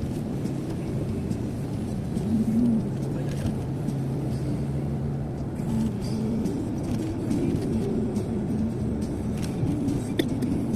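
Steady road and engine noise of a car cruising on a highway, heard inside the cabin as a continuous low rumble.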